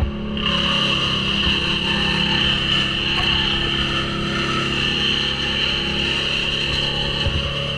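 Chainsaw running at a steady high speed, picking up sharply about half a second in as it cuts through white birch wood.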